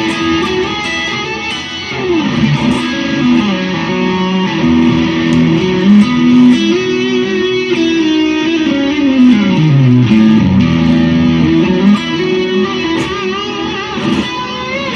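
Electric guitar played through a Walrus Audio Mayflower overdrive pedal with the gain set high, heard from the room's monitor speakers: a single-note lead line with notes sliding up and down in pitch.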